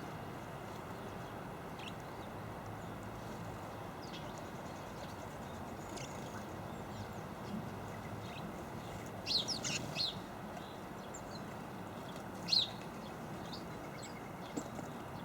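Small garden birds giving short, high chirps: a quick cluster of several calls around the middle, then single chirps later, over a steady background rumble.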